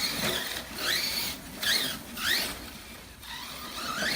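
Arrma Kraton 6S RC monster truck's brushless motor whining in several short bursts, its pitch rising each time the throttle is blipped.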